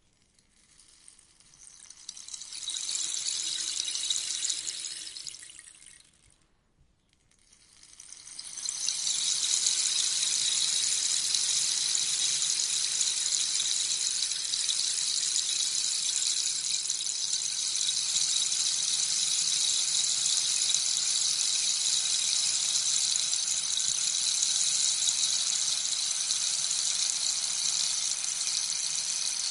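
Rainstick being tipped, its pellets trickling down inside as a rain-like hiss. The first pour swells and dies away over about six seconds. After a brief pause a second pour builds and then runs on steadily.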